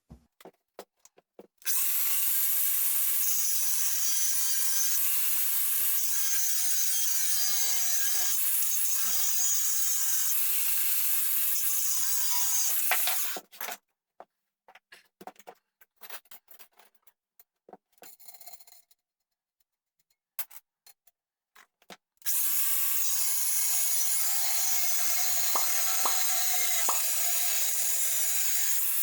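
Angle grinder cutting through steel threaded rod: two steady cuts of about twelve seconds each, with a stretch of clicks and handling noise between them.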